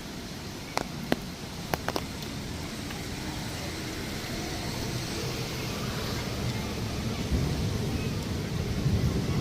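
Street traffic noise that swells steadily as a vehicle approaches on a wet city street, with a few sharp clicks in the first two seconds.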